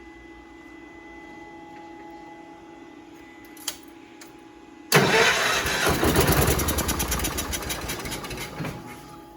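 The Allis Chalmers tractor's Kohler engine is cranked on the starter for its first start attempt after a head gasket replacement. About five seconds in it starts turning over with a fast, even rhythm, fades, and stops after about four seconds without staying running. Before that there is only a faint steady hum and a small click.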